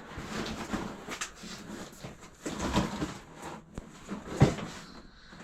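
Glassware and boxes being handled and unpacked: scattered knocks and rustling, the loudest a sharp knock about four and a half seconds in.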